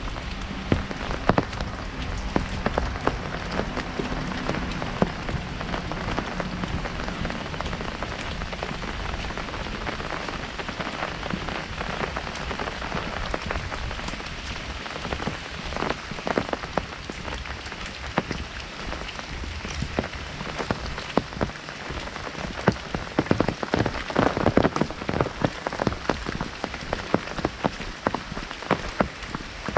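Heavy rain drumming on an umbrella overhead: a dense, steady patter of drops with sharper, louder hits, thicker in bursts about halfway through and again near the end.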